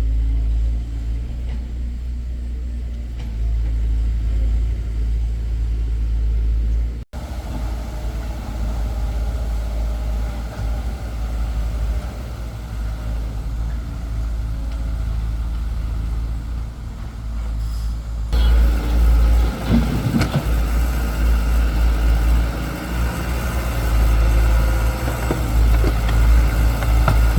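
Excavator diesel engine running steadily with a deep hum, the sound changing abruptly twice. Later on, a few sharp knocks and clatters are heard over the engine.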